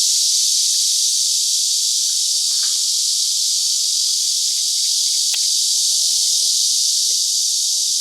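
Cicadas singing in chorus, a steady high buzzing hiss, with faint small knocks and rustles beneath it.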